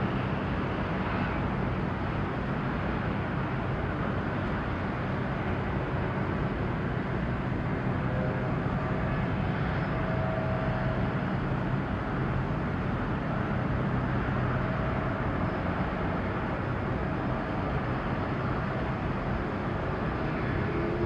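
Steady harbour ambience: a continuous low engine drone under an even wash of noise, with a few faint short higher tones about halfway through and near the end.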